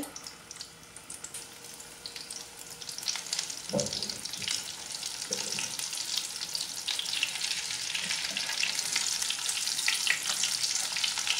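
Egg-coated shami kebabs shallow-frying in hot oil in a pan, sizzling and crackling. The sizzle grows louder from about three seconds in as more patties go into the oil, with two soft knocks around four and five seconds in.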